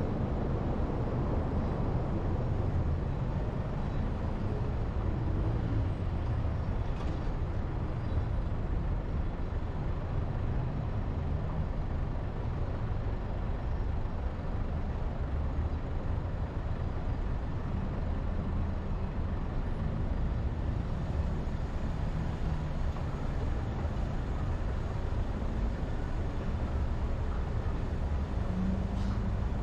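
Car driving on a road: steady engine and tyre noise.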